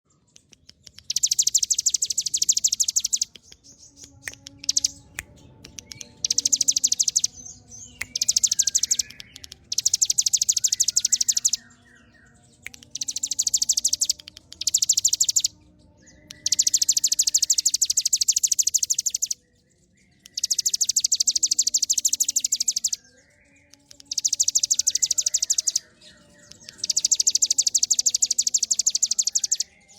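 Ciblek gunung, a prinia, singing in long rapid drilling trills ('ngebren'), about nine bursts of two to four seconds each with short pauses between them.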